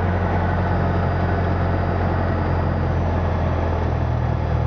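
Cessna 172's Lycoming O-320 four-cylinder horizontally opposed engine and propeller running at low taxi power, a steady low drone that shifts slightly in pitch near the end.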